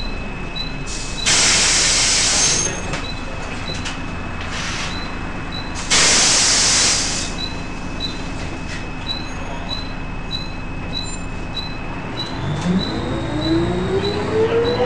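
Volvo B10BLE bus with a steady high-pitched whine, the strange noise it is known for, over a regular ticking; twice air hisses out loudly from its air system. Near the end the whine stops and the engine revs up with a rising note.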